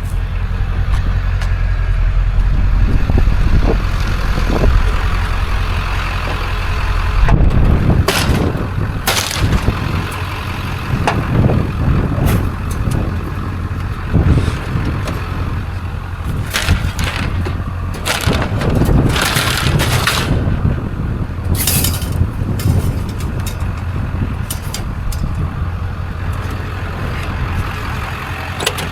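A vehicle's engine running with a steady low rumble, broken by scattered sharp clanks and knocks that come thickest through the middle.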